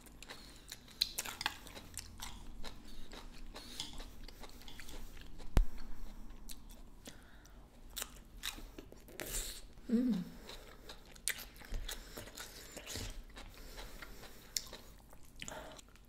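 Close-up mouth sounds of a person chewing food, with wet crunching and crackling throughout. There is a sharp click about five and a half seconds in and a brief low voiced sound near ten seconds.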